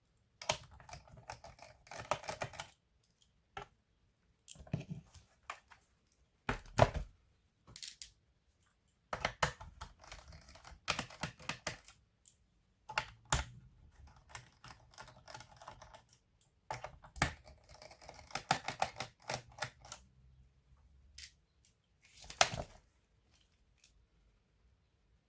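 Clicks, taps and plastic rattles of an Asus A42F laptop being handled and taken apart by hand, in irregular bursts with short pauses between. The sharpest clicks come about seven seconds in and again near the end.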